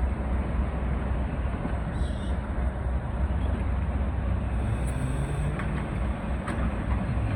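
Locomotive engine running steadily with a low, even hum, with a few faint clicks in the second half.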